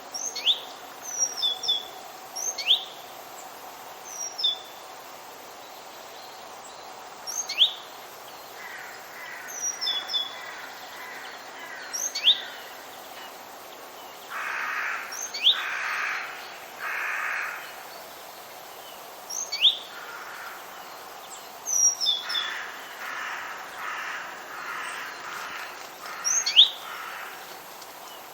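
Forest birds calling: short, sharp, high chirps every couple of seconds, and bouts of harsh, caw-like calls of about a second each in the middle and again near the end, over a steady background hiss.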